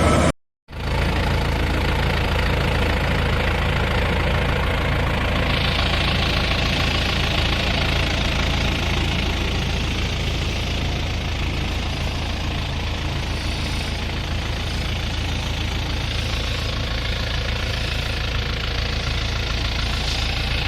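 Rice combine harvester running steadily: an even engine hum under a rushing machinery noise that grows louder about five seconds in. The sound cuts out completely for a moment about half a second in.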